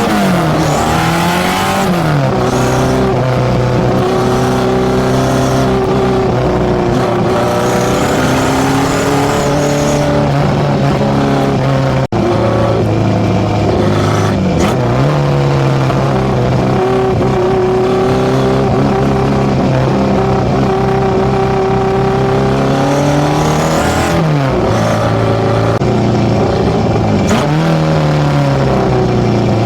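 Tuned Datsun A15 four-cylinder engine on FCR41 carburettors, heard through its one-off 54 mm stainless exhaust. It runs at steady revs for long stretches, with several quick rises and drops in pitch, and cuts out for a moment near the middle.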